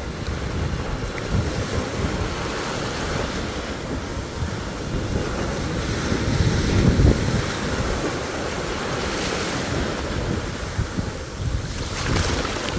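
Sea waves washing onto a beach, with wind buffeting the microphone in gusts that are strongest about six to seven seconds in.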